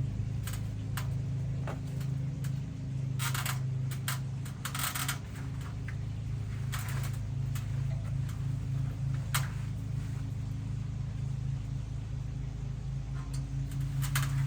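An engine running steadily with a low, even hum. Several short bursts of rustling or crackling noise come over it, about three and a half, five and seven seconds in and again near the end.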